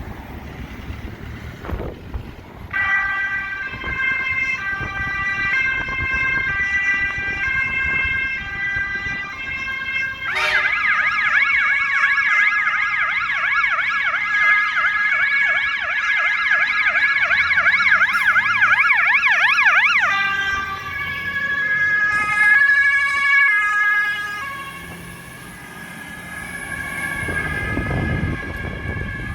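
Emergency vehicle siren sounding a pattern of alternating tones, switching about ten seconds in to a fast, rapidly sweeping yelp for about ten seconds, then back to slower, steadier tones. A vehicle's road noise rises and passes near the end.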